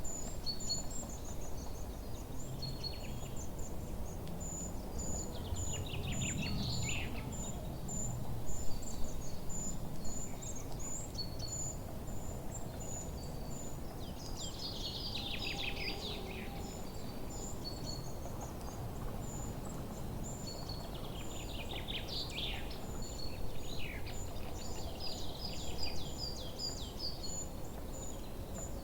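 Forest birdsong: a high, short chirp repeats about twice a second throughout, while three times a bird sings a quick cascading phrase that falls in pitch, with other chirps in between, over a steady low background rumble.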